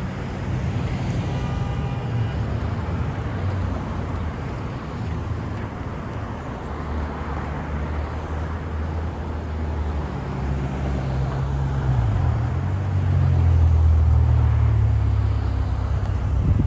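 Road traffic with a heavy vehicle's engine running low and steady, most likely a transit bus. The engine grows louder about two-thirds of the way through, its pitch bending as it passes, and is loudest near the end.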